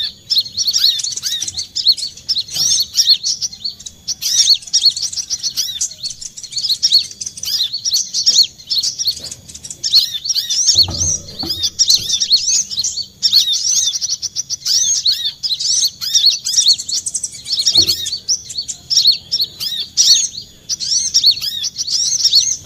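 Brown-throated sunbird (kolibri kelapa) singing: a fast, nearly unbroken run of high, sharp chirps and twitters. There is a dull low thump about 11 seconds in and another near 18 seconds.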